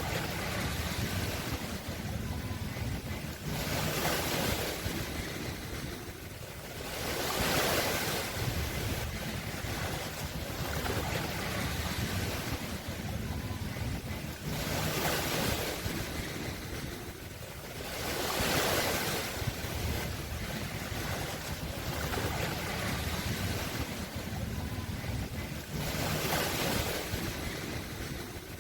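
Sea waves washing onto a shore, the surf swelling and falling back about every three to four seconds over a low steady rumble.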